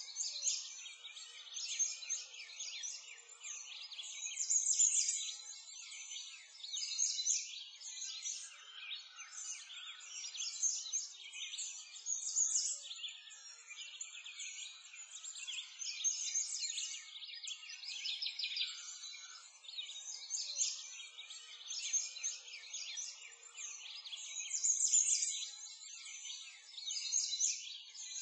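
A dense chorus of birds chirping and singing, many short high chirps overlapping, growing louder and softer every couple of seconds.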